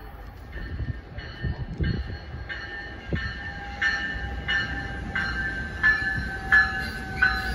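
NJ Transit MultiLevel commuter train rolling along a far track, low rumble with a few thumps from the wheels. Over it a high ringing repeats evenly about every two-thirds of a second, starting about half a second in.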